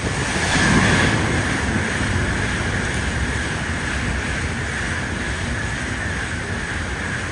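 A Shinkansen Nozomi rushing through the station in torrential rain: a steady rushing roar of the train and the downpour together. It swells in the first second and holds until near the end.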